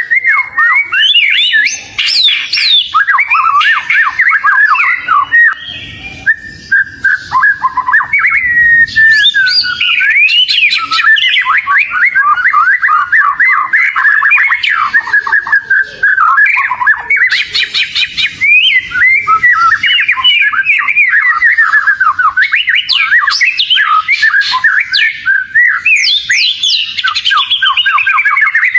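Oriental magpie-robin (kacer) singing without a break: a fast, varied run of short whistled notes sweeping up and down, used as a lure song to set other magpie-robins singing.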